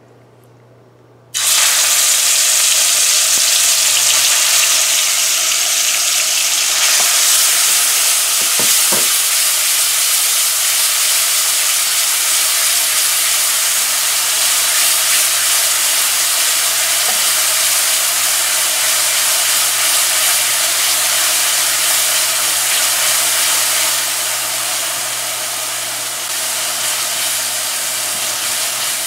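Curry paste sizzling loudly in hot vegetable oil in a karahi, starting suddenly about a second in as the paste hits the oil, while a spatula stirs it. The sizzle eases slightly near the end.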